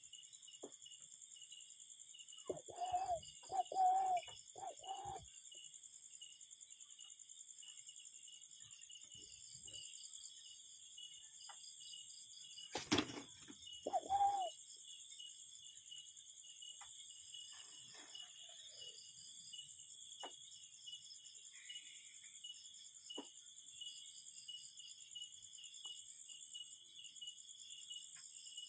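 A cuckoo calling in low hooting notes: three in quick succession a few seconds in, and one more about halfway through. Steady high-pitched insect chirring runs underneath, and a single sharp click comes just before the last note.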